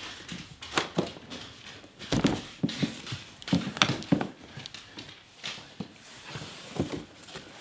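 Irregular knocks, clicks and rustles of cardboard and plastic being handled as a boxed vacuum cleaner is unpacked.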